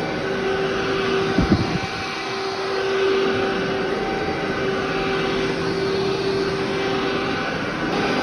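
Vacuum cleaner running steadily with a constant hum over a rushing noise, with a brief knock or two about a second and a half in.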